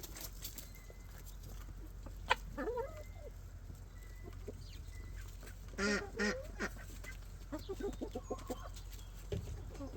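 Birds calling: a sharp click about two seconds in, a loud call near the middle, then a quick run of short calls, over a steady low hum.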